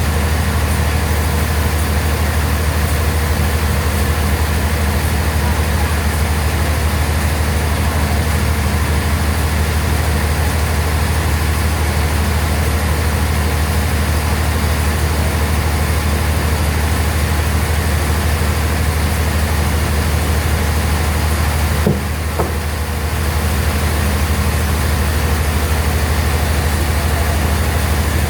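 Sawmill bandsaw machinery running steadily, a loud low drone under an even hiss. There is a short knock and a brief dip in level about three-quarters of the way through.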